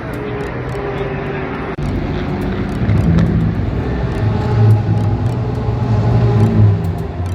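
Race car engines running, a steady engine drone that breaks off abruptly about two seconds in and comes back louder.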